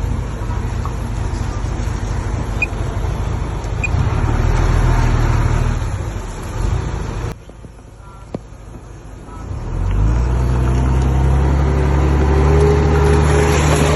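Heavy diesel machinery engine running. It drops away suddenly about seven seconds in, then comes back steady and louder about three seconds later.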